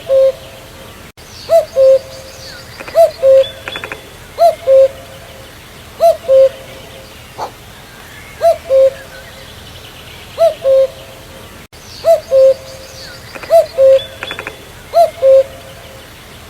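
Common cuckoo calling its two-note "cuck-oo", a higher note dropping to a lower one, repeated about every second and a half, with faint chirps of other birds behind it.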